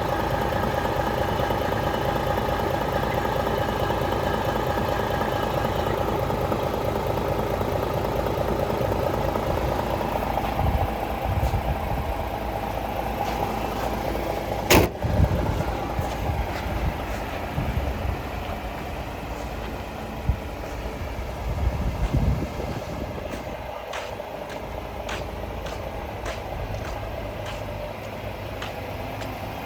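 DAF CF 480 truck's diesel engine idling steadily, a little quieter in the second half. A single sharp knock comes about halfway through, and a few light clicks follow near the end.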